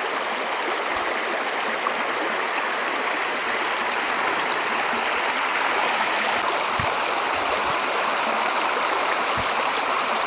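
Creek water rushing steadily over rocks in a canyon, an even, unbroken rush.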